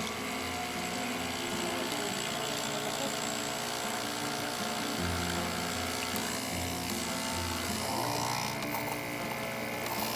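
Nespresso capsule machine's pump running as it brews a large cup, a steady buzz that swells and eases in stretches of a second or two.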